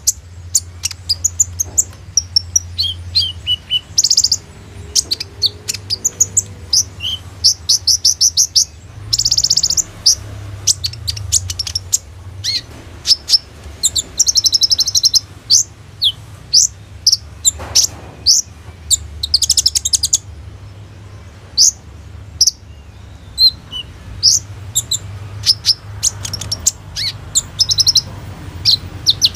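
Kolibri ninja (purple-throated sunbird) singing a fast, varied song of sharp high chirps broken by rapid buzzy trills, the show song loaded with phrases copied from other birds. A faint low hum sits underneath.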